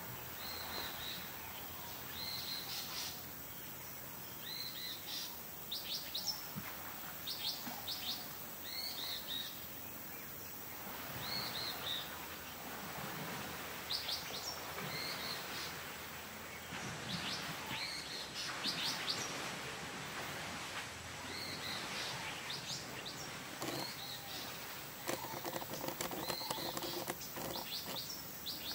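Wild birds chirping and calling repeatedly, short whistled notes and quick chirp runs, over a steady outdoor hiss, with a short rapid rattle near the end.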